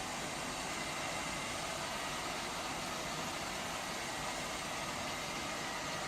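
Robot vacuum cleaner running, a steady whir of its suction fan and brushes with a faint steady high tone.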